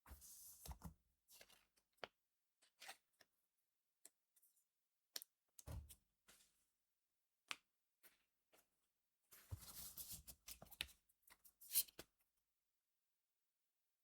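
Faint handling of Cardfight!! Vanguard trading cards and booster packs: scattered soft rustles, slides and small clicks, with a longer stretch of rustling about two-thirds of the way in.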